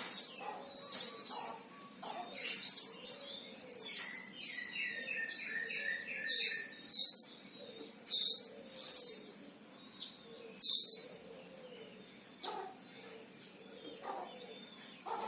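Himalayan bulbul singing loud, rapid runs of short, high chirping phrases. The song is dense for about the first ten seconds, then breaks up into a few scattered notes near the end.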